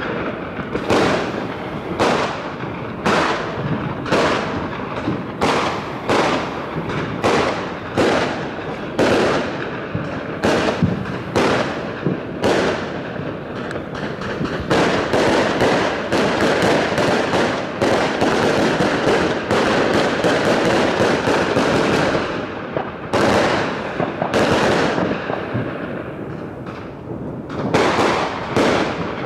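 Fireworks going off: a long run of sharp bangs and crackles, one after another, that thickens into a dense continuous barrage midway, eases off, then picks up again near the end.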